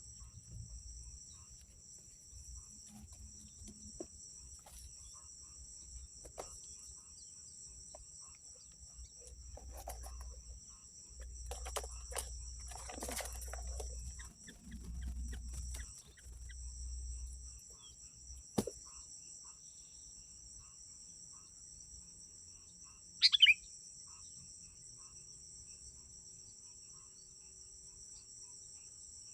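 Steady, high-pitched buzzing of crickets or other insects, two tones held together throughout. A low rumble comes and goes over the first half. One short, sharp bird call about 23 seconds in is the loudest sound.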